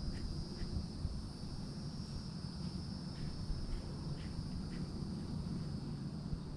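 Steady high-pitched insect chorus, like crickets, with a low rumble underneath and a few faint short chirps.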